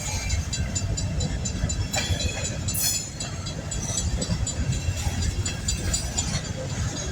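Long coal train rolling past: a steady low rumble with light, rapid metallic clicking from the wheels on the rails.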